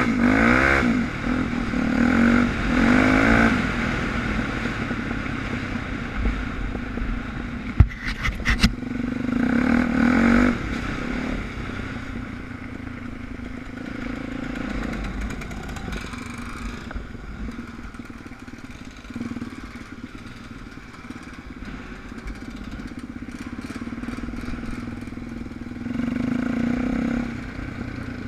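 Suzuki DR350 single-cylinder four-stroke trail bike engine running under way, revving up in bursts near the start, about ten seconds in and near the end, with a few sharp knocks about eight seconds in.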